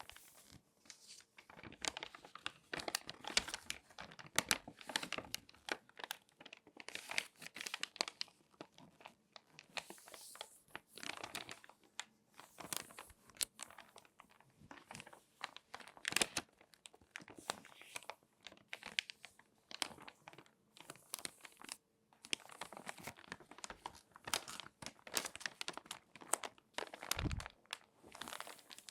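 Glossy magazine pages being handled and folded by hand: irregular crinkling and crackling paper with sharp snaps, in clusters separated by short pauses, and one brief low thump near the end.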